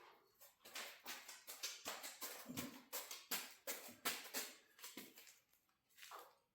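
Irregular light clicks and knocks, two or three a second, with one duller low knock about two and a half seconds in: hardware and tools being handled while working on a garage door's torsion spring assembly.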